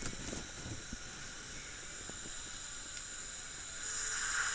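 Dental surgical suction tip hissing steadily at the implant site. It grows louder near the end.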